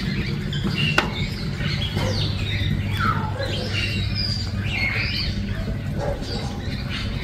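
Birds chirping and calling: many short chirps and gliding calls over a steady low hum, with one sharp click about a second in.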